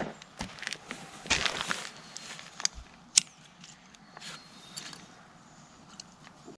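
Small newly lit campfire crackling: scattered clicks and pops, with one sharp snap about three seconds in.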